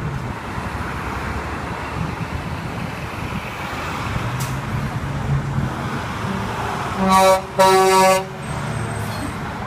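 Truck engines running steadily in a convoy; about seven seconds in, a truck horn sounds twice, a short blast then a longer one.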